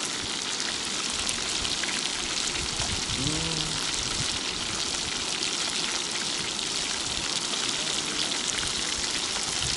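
Flour-coated fish frying in hot oil in a pan, a steady, dense sizzle and crackle.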